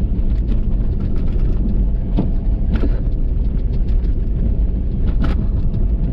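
Ford F350 pickup fitted with a Boss snow plow driving on a snowy road: a steady low rumble from the engine and the road, broken by a few short sharp clicks about two, three and five seconds in.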